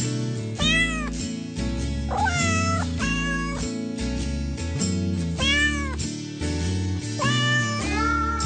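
Cat meowing about six times, each meow a short rise-and-fall call, over background music with a steady beat.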